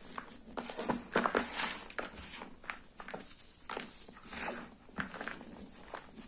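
Sports chalk being handled close up, making irregular taps and short scrapes with no steady rhythm.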